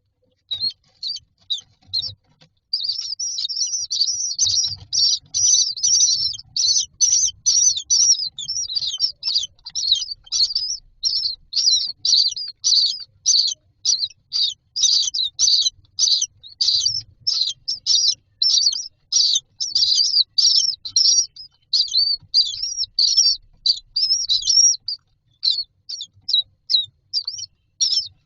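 Common myna chicks in a nest box giving rapid, repeated high-pitched begging calls, several a second, sparser near the end. Faint low knocks of the chicks moving in the box lie underneath.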